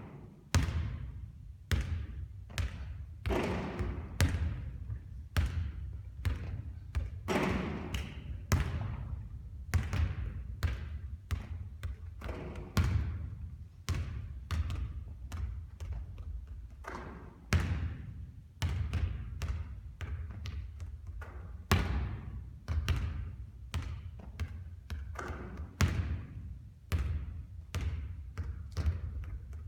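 Basketballs bouncing on a hard court, a long irregular run of sharp thuds, some followed by a brief echo.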